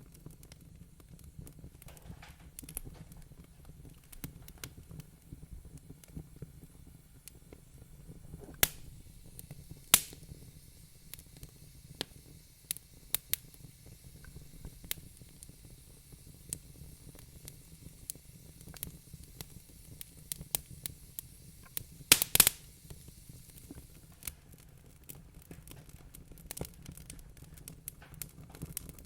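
Wood fire crackling in a fireplace: irregular pops and snaps over a low steady rumble, with sharper pops about 9 and 10 seconds in and a quick cluster of loud pops near 22 seconds.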